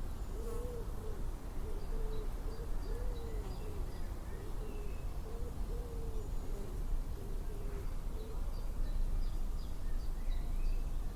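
A bird calling a steady series of about a dozen short hoots on one pitch, stopping about eight seconds in, with faint chirps of small birds above it.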